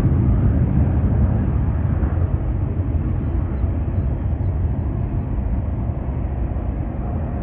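Jet airliner engines rumbling deep and loud as a plane passes, slowly fading, with a faint whine early on.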